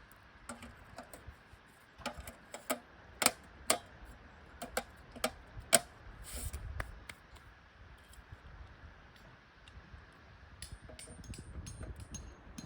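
Irregular sharp clicks and light clinks, about a dozen in the first half, then a few fainter high clicks near the end, over a low rumble.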